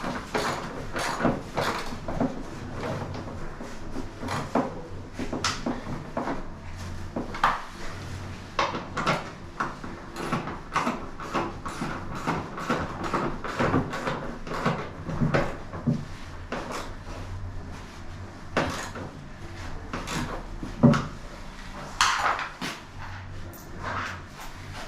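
Hand work on a washing machine: irregular clicks, knocks and clatter of tools and parts being handled, several a second at times, with a low hum underneath.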